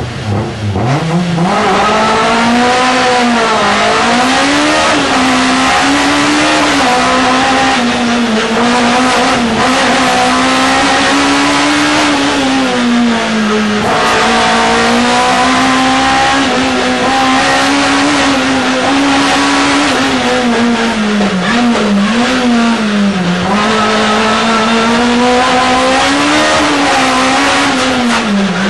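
Onboard sound of a VW Scirocco Mk1 race car's 16-valve four-cylinder engine pulling away hard from the start and running at high revs up a hillclimb. The pitch rises and falls repeatedly with gear changes and lifts for corners.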